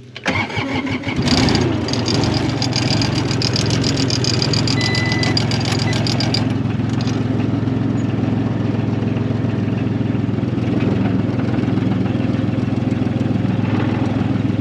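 Skid steer engine cranking for about a second, catching and then running steadily. A fast rattle rides over the running engine for the first several seconds and dies away about six seconds in.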